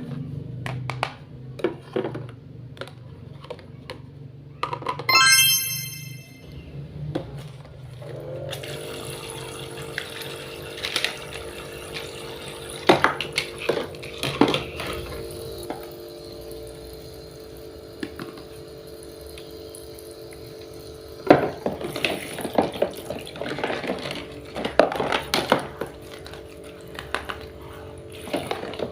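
Toy kitchen sink's small battery water pump switching on about 8 seconds in and running steadily with a hum, water trickling, amid clicks and taps of plastic toy parts. A short electronic toy tone sounds a few seconds before the pump starts.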